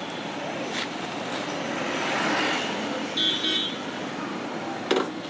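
Road traffic noise with a vehicle passing, swelling about two seconds in, and a short high horn toot a little past three seconds.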